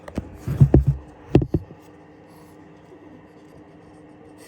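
A quick series of loud knocks and bumps against a snake's plastic feeding bin in the first second and a half, then only a faint steady hum.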